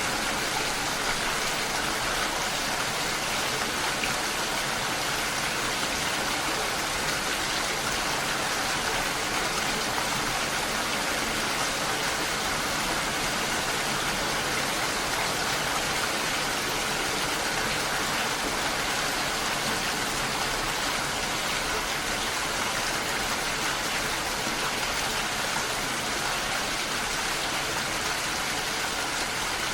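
Steady rain falling, a dense even hiss of drops that holds at the same level throughout.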